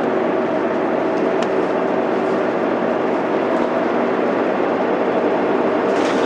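Mitsubishi Fuso Aero Star city bus heard from inside the cabin while driving, its 6M70 diesel inline-six running at a steady pitch over continuous road and tyre noise, with a few faint rattles.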